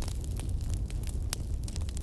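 Wood fire crackling in a fireplace: a steady low rumble of burning with many sharp, irregular pops and snaps.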